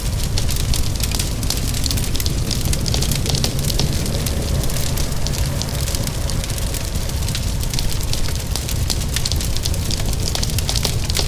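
Fireplace fire crackling: a dense, steady run of small pops and snaps over a constant low rumble, with rain falling.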